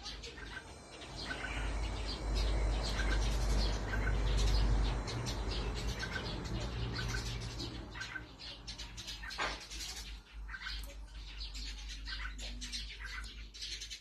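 Birds chirping in short, high notes throughout, over a low rumble on the microphone that is loudest from about two to five seconds in. A single sharp click comes about nine and a half seconds in.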